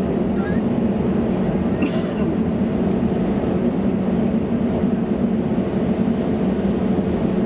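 Steady low cabin hum inside an Airbus A320neo on the ground before takeoff, with a couple of faint clicks.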